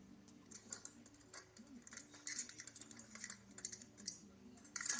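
Irregular light clicking and tapping, a few strokes a second, with a sharper cluster of clicks near the end, over a faint low hum.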